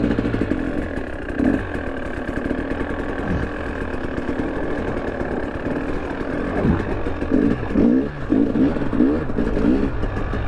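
Two-stroke engine of a 2023 KTM 300 Erzbergrodeo dirt bike running while it is ridden off-road, the throttle opened and closed several times in the second half so the engine note rises and falls.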